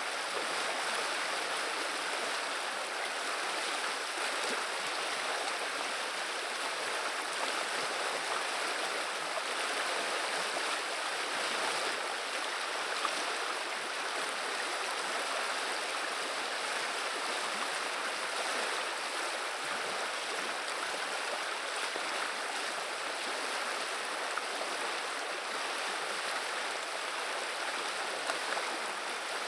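Vilia river water running, a steady, even rush and babble of flowing water.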